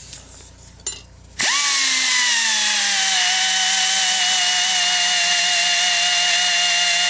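Handheld power tool spinning up about a second and a half in and running steadily, its high whine dropping slightly in pitch and then holding, as it cleans a rusty spot down to bare metal for a ground connection.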